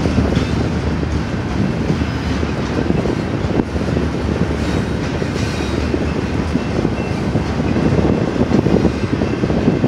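Loaded double-stack container well cars of a freight train rolling past, a steady noise of steel wheels running on the rails.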